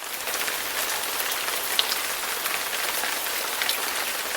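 Heavy rain falling in a torrential night rainstorm: a dense, steady hiss with many individual drops striking close by. It starts abruptly.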